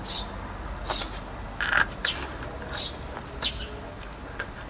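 A small bird chirping: a series of short, high chirps, roughly one every half second to second, one of them louder near the middle.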